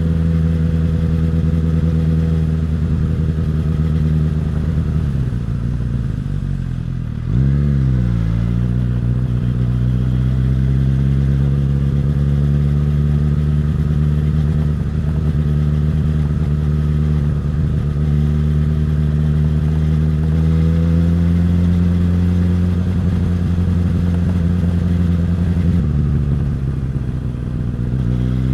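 Suzuki GSX-S1000's inline-four engine and exhaust under way at a steady pace. The engine note sags slowly, then climbs sharply about seven seconds in as the throttle opens, holds steady, and dips again near the end before starting to rise.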